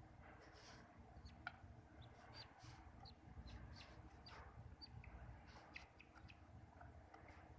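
Pet budgerigar making faint, short, scattered chirps and clicks.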